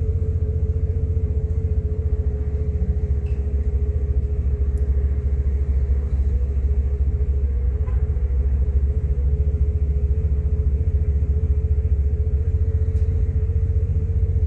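Steady low rumble of a vehicle sitting at idle, heard from inside the cabin, with a steady hum held at one pitch over it.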